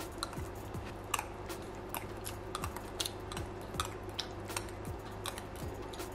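Close-up chewing of a mouthful of milk-soaked hazelnut chocolate Coco Pops: a run of small wet clicks and smacks, a few a second, over a low steady hum.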